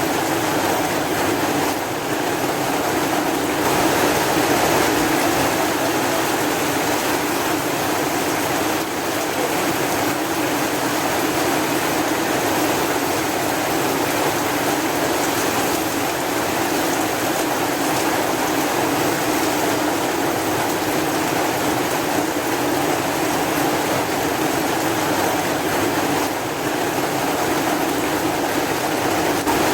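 Steady, continuous rain: an even rushing hiss with no breaks or separate drops standing out.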